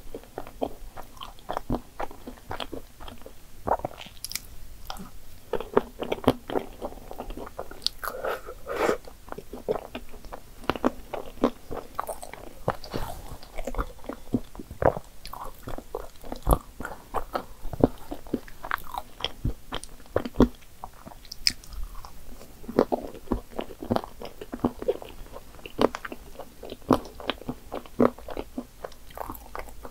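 Eating sounds: chewing and biting soft cream puffs topped with whipped cream and chocolate sauce, with crunches from dark chocolate chips. There are many short, irregular clicks and crunches.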